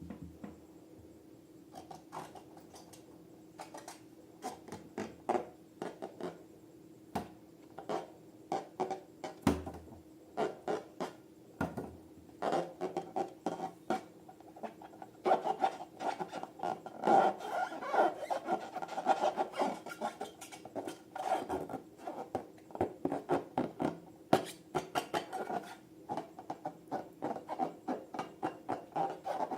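Hands working slime and balloons, making a string of short clicking, rubbing and squishing noises that come sparsely at first and grow denser and louder about halfway through.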